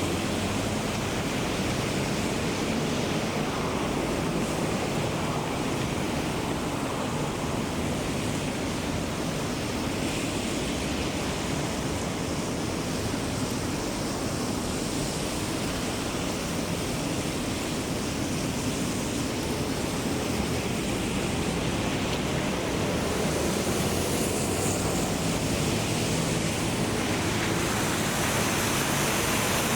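Steady rushing hiss of heavy rain, getting slightly louder near the end.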